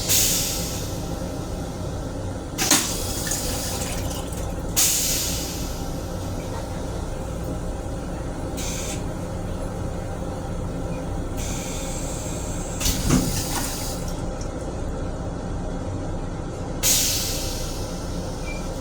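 Water running in several short hissing bursts from the fixtures of an M7 railcar restroom, the longest lasting about a second and a half roughly twelve seconds in, over a steady low rumble.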